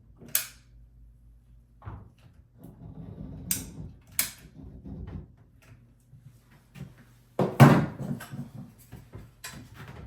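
Scattered sharp clicks and knocks from handling things at the vanity, with rustling in between and one loud thump about seven and a half seconds in.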